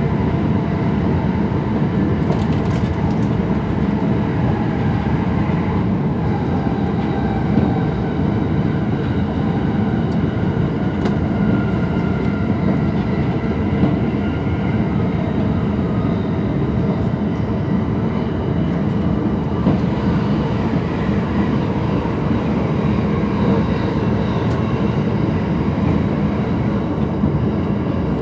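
Running noise inside a JR East E231 series Green car travelling at speed: a steady rumble of wheels on rail, with a few faint clicks.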